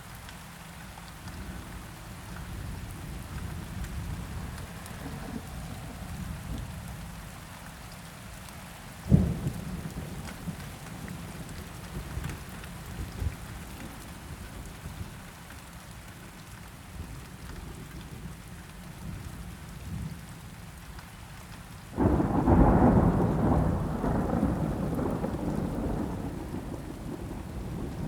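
Steady rain with low thunder rumbling under it. A sharp thunder crack comes about nine seconds in, and a loud thunder peal breaks near the end and keeps rolling.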